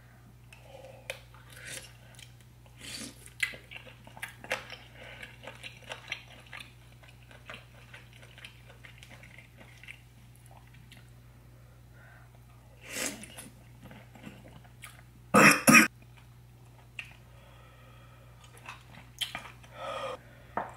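Close-miked chewing and biting of seafood-boil seafood in spicy sauce, with many small wet smacks and clicks. About fifteen seconds in come two loud coughs in quick succession, brought on by the hot spice.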